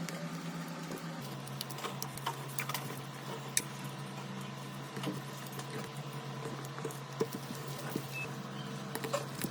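Faint scattered clicks and light scraping of a smartphone being handled and worked on in repair, over a steady low hum.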